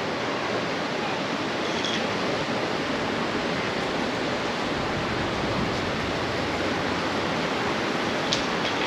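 Steady rushing hiss of flowing creek water, with one faint click near the end.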